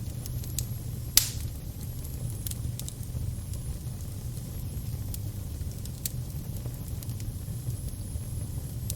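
Fire crackling over a steady low rumble, with scattered sharp pops and one loud pop about a second in.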